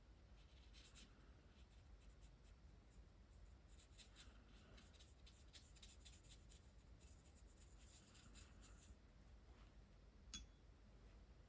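Faint scratching strokes of a Spectrum Noir Tri-Colour Aqua water-based marker tip on hot-press watercolour paper, in several short runs of strokes, with one small sharp click near the end.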